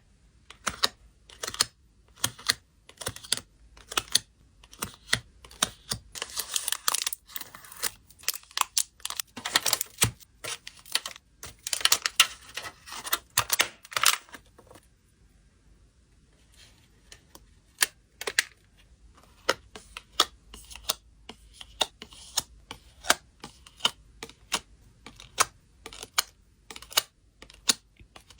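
Hands handling packing materials: many quick sharp taps and clicks, with a stretch of crinkly rustling in the first half.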